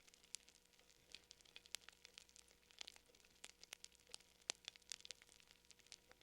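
Wood fire crackling faintly, with irregular sharp pops and snaps scattered over a soft hiss.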